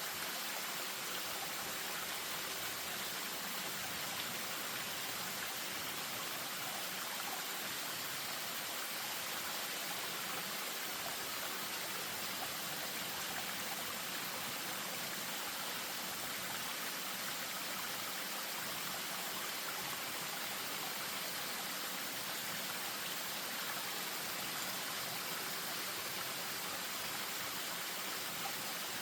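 Spring-fed stream spilling over a small waterfall: a steady, unbroken rush of running water.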